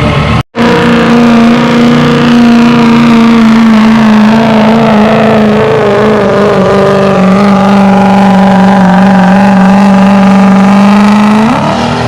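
A Ford pickup truck's engine running hard at full throttle while pulling a weight-transfer sled. Its pitch sinks slowly as the sled loads up, then flares up sharply near the end.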